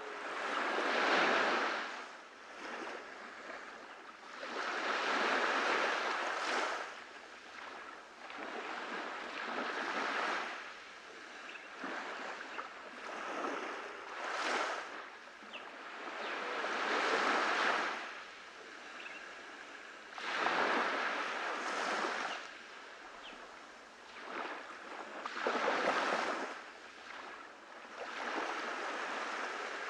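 Sea waves breaking and washing up on a beach, a surge of surf rising and falling about every four seconds.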